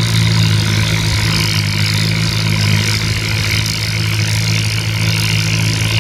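Antique tractor engine running at a steady speed, a constant low hum with no revving.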